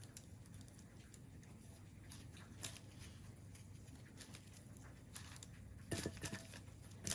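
Faint rustling and crackling of dried herbs and dry harmala seed pods being handled and dropped into a candle mould, with a few sharper clicks and rustles near the end.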